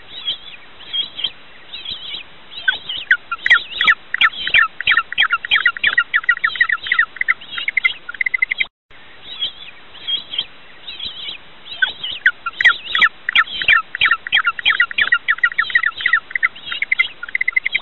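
A bird calling in a rapid series of short, high chirps, sparse at first and then quickening into a fast run. The same sequence plays twice, with a brief break about halfway.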